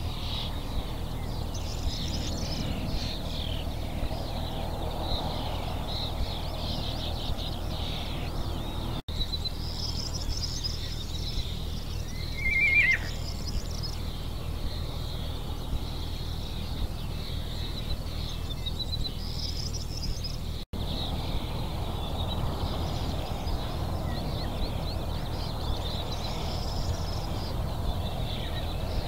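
Several birds singing and calling over a steady low background rumble. About twelve seconds in, a short, louder harsh call stands out as the loudest sound. The sound drops out for an instant twice.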